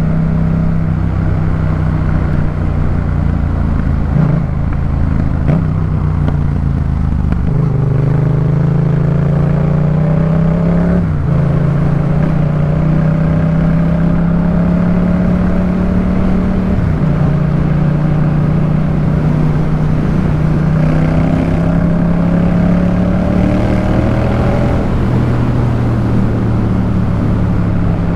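Yamaha MT-07's parallel-twin engine through a Jeskap K4 full exhaust, heard while riding. It holds a steady note at first, then the pitch climbs as it accelerates, drops twice at gear changes and climbs again after each.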